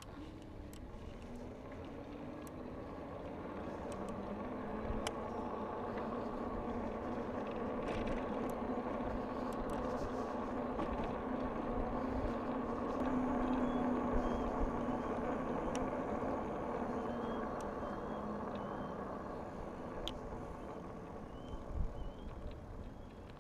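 A motor vehicle's engine running as it approaches and passes, swelling slowly to its loudest a little past the middle and then fading. Faint bird chirps come in over the second half.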